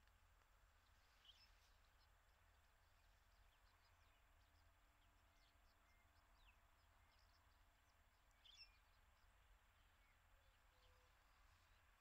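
Near silence over a low steady rumble, with faint, short bird chirps scattered throughout, the clearest about two-thirds of the way through.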